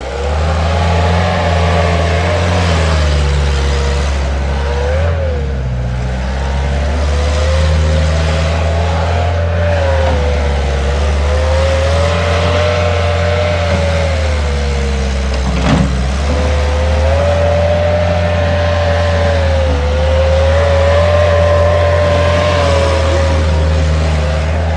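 Bobcat S175 skid steer's diesel engine running steadily, with a whine that wavers slowly in pitch as the revs shift a little. There is one sharp knock about two-thirds of the way through.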